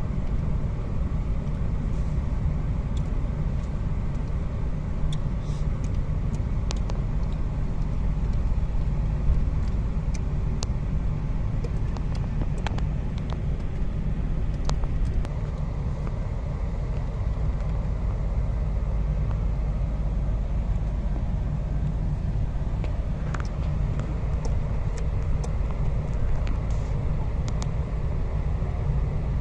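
A car driving along a road: a steady low rumble of engine and tyre noise, with scattered small clicks and rattles.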